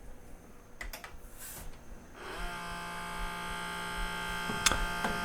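Sony CDP-CX355 CD changer's carousel motor running with a steady whine, after a couple of clicks as the player switches on. The motor turns but the carousel does not spin, which usually means its drive belt is broken, slipped off the pulley, stretched or turned to goo.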